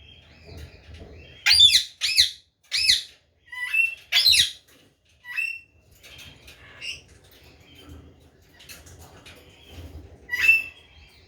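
A young white parrot giving harsh squawking calls: four loud calls in quick succession in the first few seconds, each falling in pitch, then softer short calls, and one more loud call near the end.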